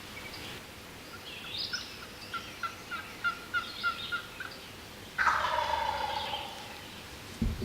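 A run of about ten short, evenly spaced calling notes, then a wild turkey gobbler gobbles loudly about five seconds in.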